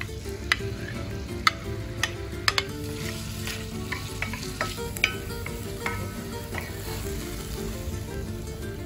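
Cubed chicken frying and sizzling in hot garlic olive oil in a black skillet, stirred with a wooden spoon that knocks sharply against the pan about a dozen times at irregular moments, mostly in the first two-thirds.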